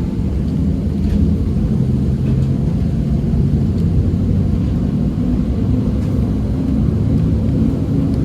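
Heritage tram running, a steady low rumble.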